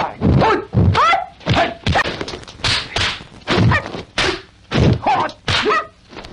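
Kung fu film fight soundtrack: a rapid run of dubbed punch and kick impact effects, about two a second, mixed with the fighters' short shouts.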